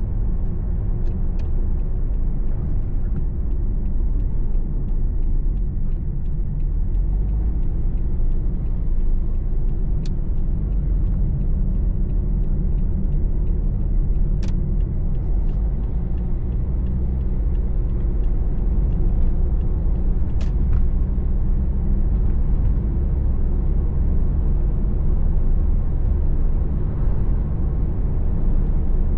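Steady engine and tyre road noise heard from inside a car's cabin while driving: a low, even rumble. Three sharp faint clicks come at intervals, about a third, half and two thirds of the way through.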